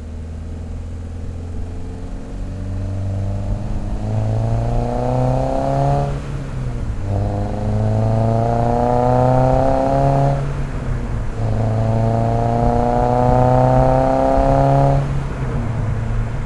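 2022 Subaru BRZ's 2.4-litre flat-four, with equal-length headers, a catless front pipe and an MRT Sport Touring axle-back, accelerating in three climbing pulls. The pitch drops briefly twice in between, as at gear shifts, and settles back near the end.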